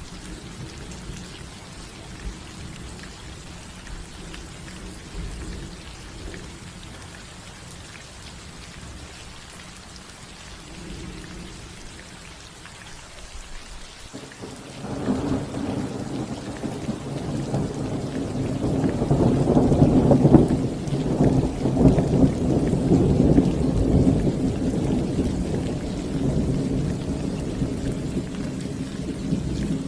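Rain falling steadily on a roof, with a long roll of thunder that starts about halfway through, swells to its loudest a few seconds later and slowly rumbles away.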